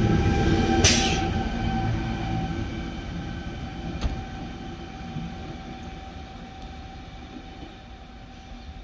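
Double-deck electric train moving away along the platform: rumbling wheels and a steady whine that fade steadily as it recedes. A short burst of hiss comes about a second in and a single knock about four seconds in.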